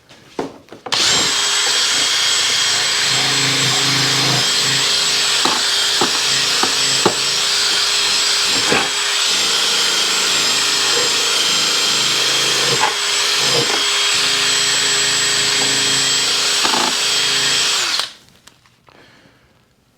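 Electric drill spinning a polishing pad against a plastic motorcycle windshield, running steadily with a constant whine. It starts about a second in and stops near the end.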